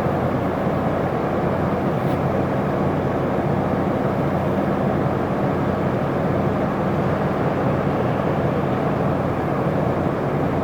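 Isuzu Erga city bus heard from inside the cabin: its diesel engine running steadily with a low hum, over road and cabin noise. A faint click about two seconds in.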